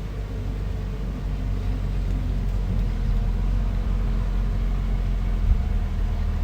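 Bulldozer's diesel engine running steadily, its low drone growing a little louder about two seconds in.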